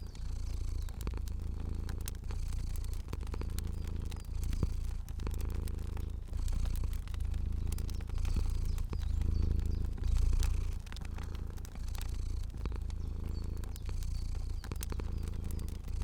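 Domestic cat purring steadily, its low rumble swelling and fading about once a second with each breath. Scattered sharp crackles of a fire sound over it.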